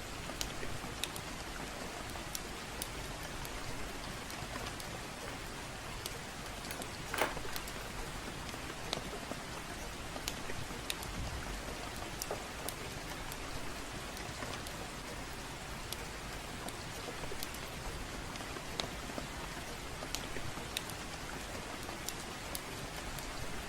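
Steady gentle rain hissing evenly, with a crackling fire: scattered sharp pops and snaps, one louder snap about seven seconds in.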